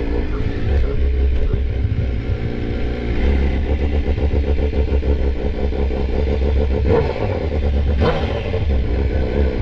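BMW S1000RR inline-four engine running through a GP S1 aftermarket exhaust, mostly a steady idle with a brief change around seven and again about eight seconds in.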